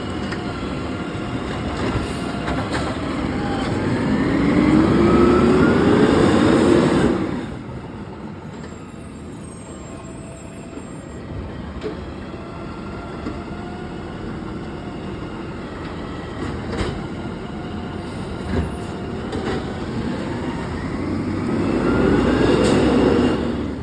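Garbage truck collecting recycling: its engine revs up with a rising whine as it works the hydraulic lift, drops back to a steady idle about seven seconds in, then revs up again near the end.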